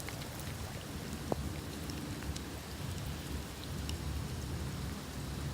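Steady rain falling, an even hiss with scattered sharp taps of drops, over a low rumble.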